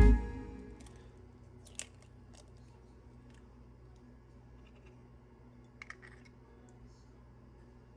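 Background music cuts off at the start, leaving a quiet room with a few faint sharp clicks: one about two seconds in and a quick pair about six seconds in.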